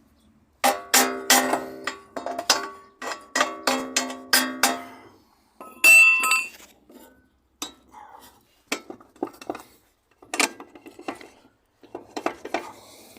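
Metal tools striking steel car parts: a quick run of ringing metallic clanks, then one louder, high-ringing clang about six seconds in, followed by scattered lighter clinks.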